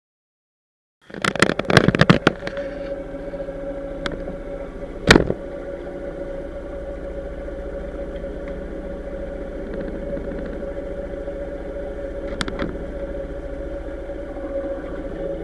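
An engine running steadily with a constant hum, after a burst of clattering knocks as the sound cuts in; a few sharp clicks sound over it, the loudest about five seconds in.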